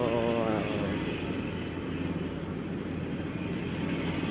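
Traffic noise heard from a motorcycle riding between big trucks: engines running steadily under wind rushing past, with a brief pitched tone in the first half-second.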